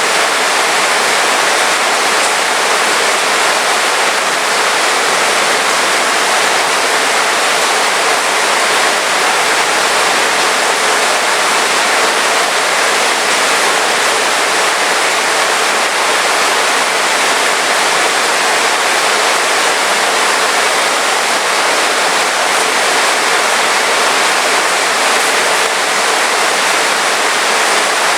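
Heavy rain falling steadily, an even dense hiss with no distinct drops or thunder.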